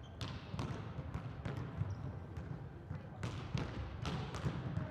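Volleyballs being hit and bouncing on an indoor court: a string of irregular sharp smacks over a low, steady murmur of arena noise.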